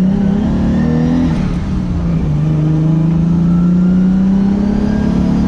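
Lexus SC300's turbocharged 2JZ-GTE inline-six heard from inside the cabin, pulling through the gears: the pitch climbs, drops once at a gear change about a second and a half in, then rises slowly again.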